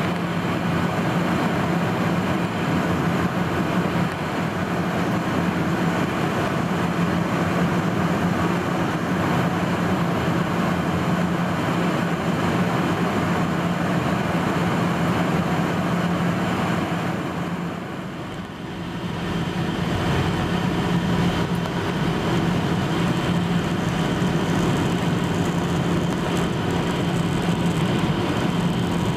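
Steady cabin noise of a Boeing 737-800 in flight, heard from an over-wing seat: the hum of the CFM56 turbofans under airflow rush. The noise briefly drops about two-thirds of the way through, then comes back to its earlier level.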